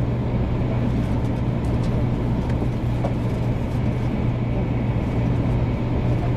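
Steady running noise of a 500-series Shinkansen heard inside the passenger cabin: a constant rumble with a low, even hum underneath.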